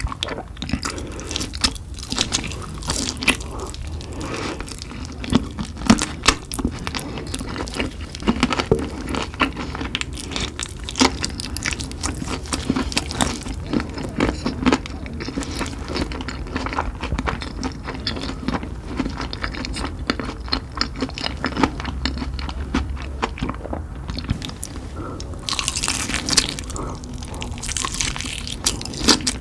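Close-miked chewing and biting of spicy chicken: a continuous run of irregular wet crunches and crackles, with a louder crackly stretch near the end.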